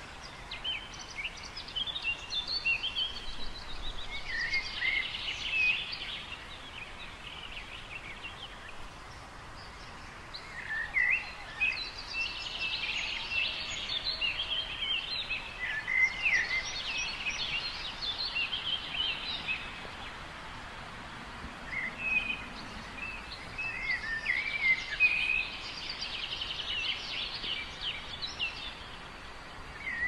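A songbird singing long bouts of quick, varied, high warbling phrases over a steady outdoor hiss. There are three bouts of several seconds each, with short pauses between them.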